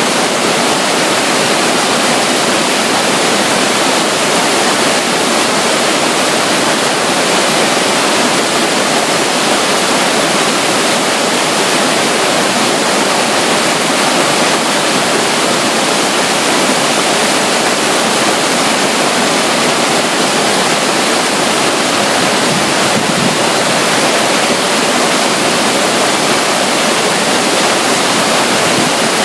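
Steady, loud rush of falling and flowing water from a small stream running beside a waterfall, unchanging throughout.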